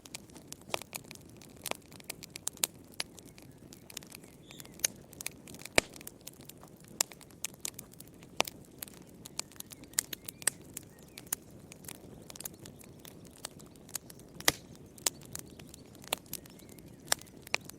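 Wood fire crackling in a fireplace: irregular sharp pops and snaps, several a second, over a soft steady rush of the flames.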